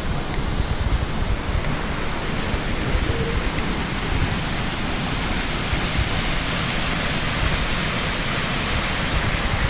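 Steady, unbroken rush of water, loud and even throughout.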